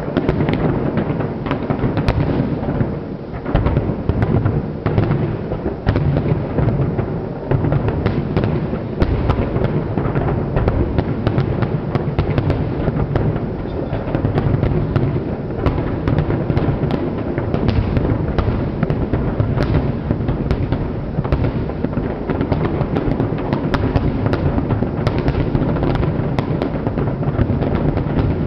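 Fireworks display with a continuous barrage of bursts: deep booming shell explosions overlapping, with many sharp cracks and pops scattered through them.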